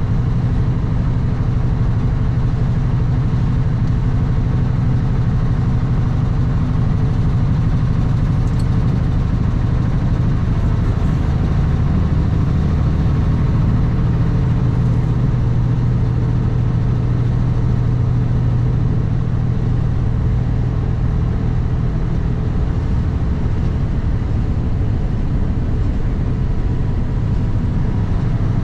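Kenworth W900 semi truck's diesel engine running steadily under way, a constant low drone with road and wind noise.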